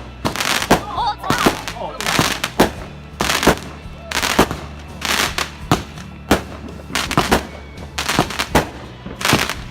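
Fireworks bursting in quick, irregular succession: about fifteen sharp bangs, roughly one every half second to second, some followed by a crackling hiss.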